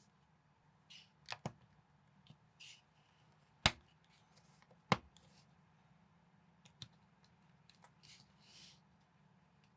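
Plastic building bricks being handled and snapped together: scattered light clicks, with two sharper snaps near the middle.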